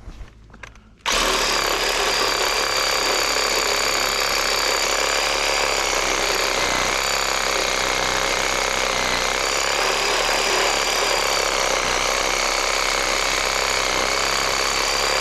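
Chainsaw running steadily while cutting up a fallen tree, starting suddenly about a second in, with a steady high whine over the engine noise.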